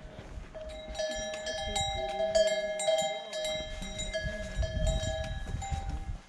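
Metal animal bells clanking over and over, several bells of different pitch ringing together, from about a second in until near the end.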